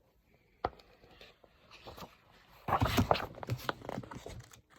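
Paper rustling and crinkling as a picture-book page is turned, a brief tap a little before the first second and a longer rustle from just under three seconds in.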